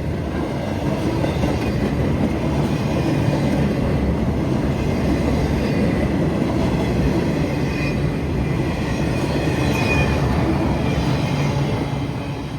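Freight train cars rolling steadily past on the rails, with faint high wheel squeal.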